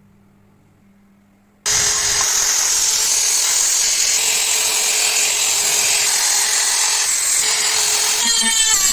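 A power tool starts suddenly about two seconds in and runs steadily with a loud, harsh hiss and a steady whine. Near the end a whine drops in pitch.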